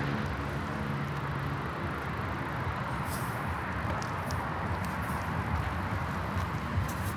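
Wind noise on the microphone and tyres rolling while cycling. A passing motor's hum fades out in the first couple of seconds, and scattered light clicks come in later.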